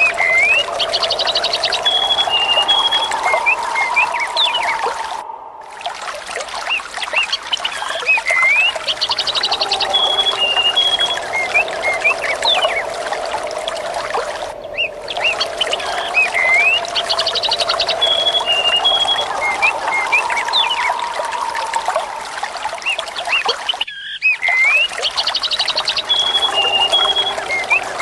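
Trickling, splashing water with birds chirping over it. The same stretch of about nine seconds repeats as a loop, with a short dip at each join.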